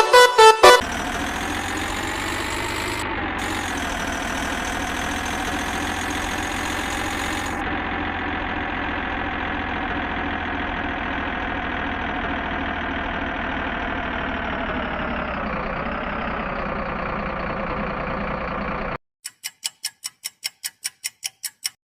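Truck engine idling steadily, its pitch shifting slightly now and then. Near the end it stops and a rapid run of short clicks, about five a second, follows.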